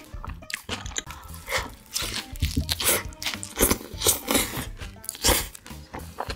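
Close-miked chewing of a cheeseburger with lettuce, with irregular crunches about two or three times a second.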